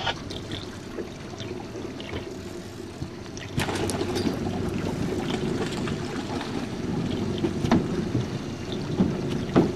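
Water lapping and sloshing against the hull of a small jon boat at sea, with wind on the microphone; it gets louder about three and a half seconds in, with a few sharp knocks against the hull.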